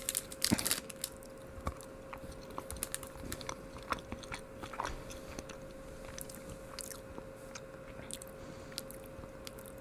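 Close-up chewing of a milk chocolate with a creamy almond filling: soft, sparse mouth clicks and crackles, with a few louder sharp noises in the first second.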